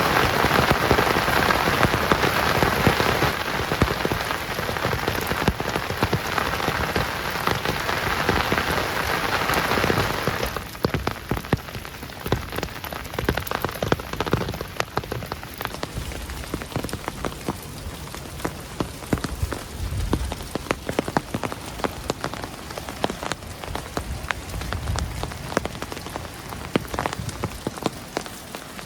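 Rain falling on a tent: a dense, steady downpour for about the first ten seconds. Then it suddenly thins to lighter rain, with many separate drops tapping.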